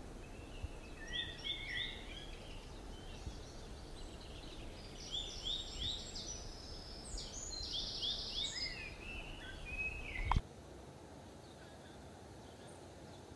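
Small birds chirping in quick runs of short, high notes over a low background rumble. About ten seconds in there is a sharp click, and the chirping and rumble stop, leaving a quieter steady hiss.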